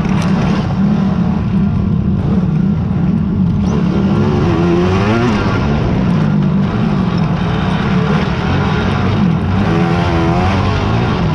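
Racing quad (ATV) engines running hard and steady, with revving that rises and falls about four to five seconds in and again near ten seconds.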